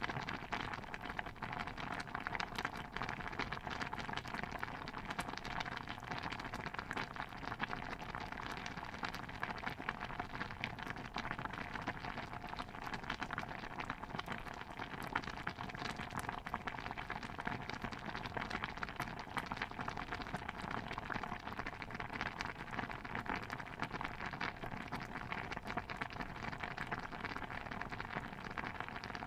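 Stew bubbling steadily in a pot, a dense unbroken patter of small pops and bubbles.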